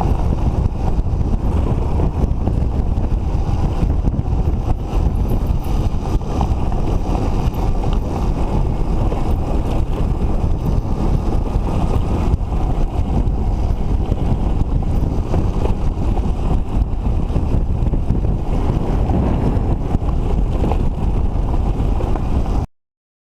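Wind buffeting the microphone of a moving motorcycle, with the engine noise of two-stroke motorcycles underneath. It stops abruptly just before the end.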